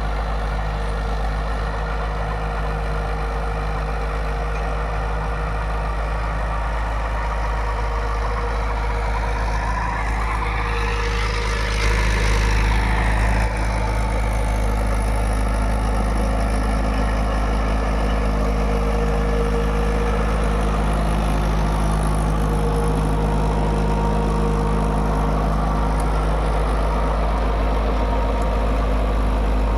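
Mahindra 475 DI tractor's diesel engine running steadily while pulling a rotavator through soil. About halfway through it grows louder for a couple of seconds, with a rise and then fall in pitch, before settling back to a steady drone.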